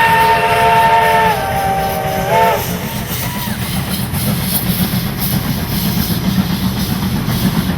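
Steam locomotive's whistle sounding a multi-note chord, which drops in pitch about a second and a half in and stops about two and a half seconds in. The train's running rumble follows, with a pulsing beat.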